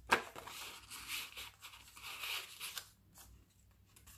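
Paper and card rustling as journal pages and inserts are turned and handled. It starts with a sharp crackle, continues for about three seconds, then fades.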